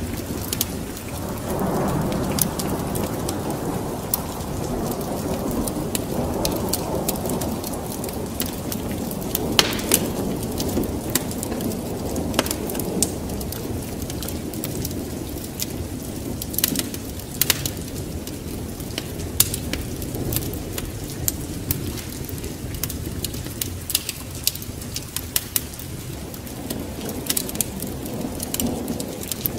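Wood fire crackling with sharp pops over steady rain, with a low rumble of thunder that swells in the first few seconds and fades.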